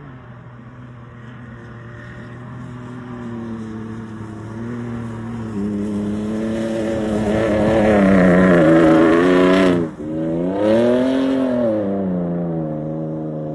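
Ford Ranger Raptor's engine revving under acceleration, its note climbing and growing louder for several seconds. Near the end it breaks off for an instant, then revs up once more and eases back.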